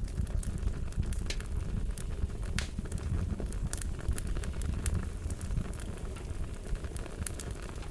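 Wood fire crackling, with scattered sharp pops and snaps over a steady low rumble of flames.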